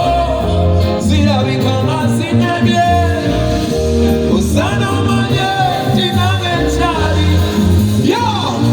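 Live band music played through a stage PA, with a singer's voice and strong bass throughout.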